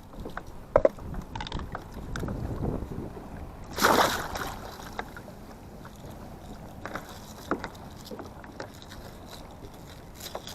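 Scattered knocks and handling clatter in a small fishing boat, with one louder short rush of noise about four seconds in.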